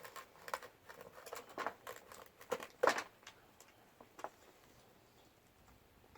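Eating at a meal: a scattered run of light clicks and taps of tableware against dishes, the sharpest about three seconds in, thinning out over the last couple of seconds.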